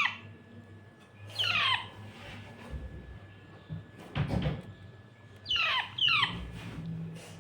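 Indian ringneck parakeet chick, about a month old, squeaking while it is fed: quick calls that fall steeply in pitch, one about a second and a half in and two close together near the end. A brief rustle comes in the middle.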